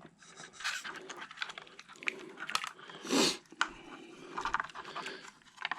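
Light clicks and rustles of hands working on the plastic parts of an RC truck during a teardown, with one short, louder noisy burst about three seconds in.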